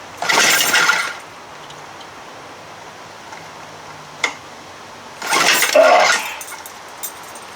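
Two pulls on the recoil rope starter of a 1956 Evinrude 7.5 hp outboard, about five seconds apart: each a sharp click followed by a rasping whir of about a second as the motor turns over. The engine does not catch.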